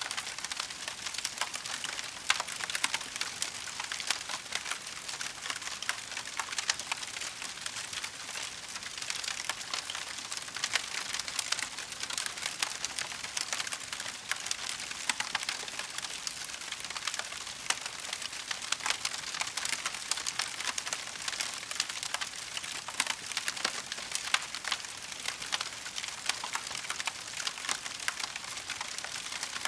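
Burning firewood crackling steadily with dense small pops and an occasional louder snap.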